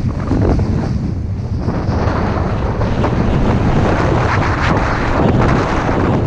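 Loud wind noise buffeting the microphone: a steady, dense rush heaviest in the low end, dipping briefly about a second in.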